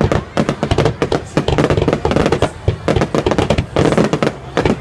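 Fireworks going off in rapid, dense succession: a barrage of sharp bangs and crackles, several a second without pause.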